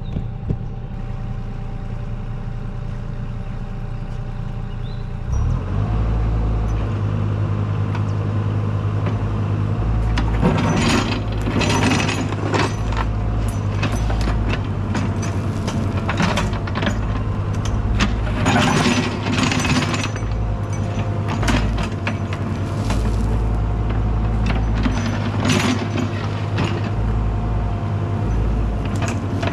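Cat excavator's diesel engine running, getting louder about five seconds in as it is throttled up to dig. From about ten seconds in, repeated scraping and clanking of the bucket digging into the ground.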